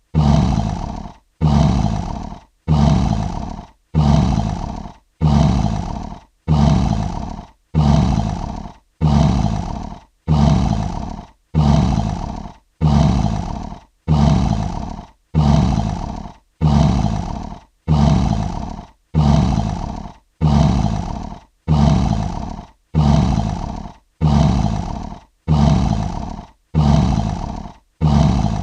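Lion roar sound effect: the same short, deep roar repeated over and over, about one every 1.2 seconds, each starting loud and fading away.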